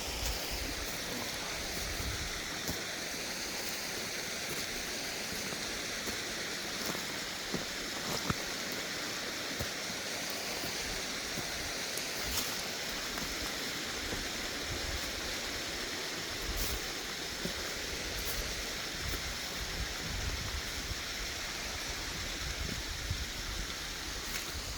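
Steady rush and splash of falling water from a small, low-running waterfall and a pipe pouring water out of the mountainside, with a few faint knocks and low bumps.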